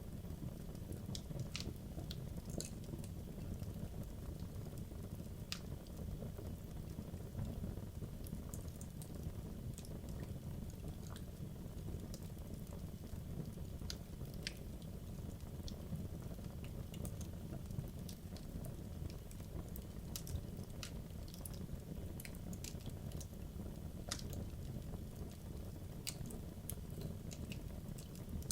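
Wood logs burning in a fireplace: a steady low rumble of the flames with scattered sharp crackles and pops, irregular, a few every couple of seconds.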